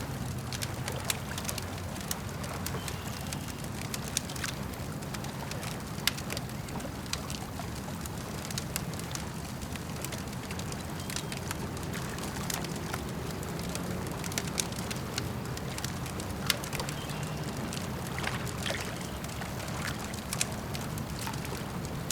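Wood campfire crackling with frequent irregular sharp pops, over a steady low wash of lake water lapping and gurgling.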